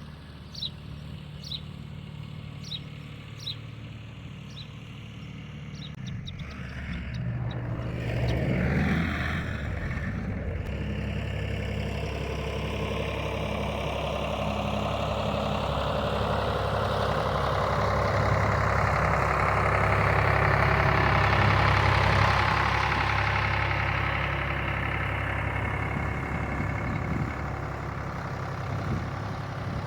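Tractor diesel engine running steadily. About eight seconds in it revs up, and a broad rushing noise builds, loudest around twenty seconds in, then eases. This fits a PTO-driven rototiller churning clumpy sod and soil.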